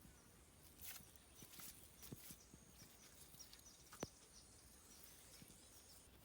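Near silence: a faint steady high tone with scattered faint clicks and ticks, and one sharper click about four seconds in.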